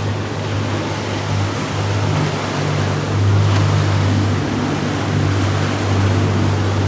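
Motorboat engines droning low and steady, over the rush of water and wind. The drone grows a little stronger about three seconds in.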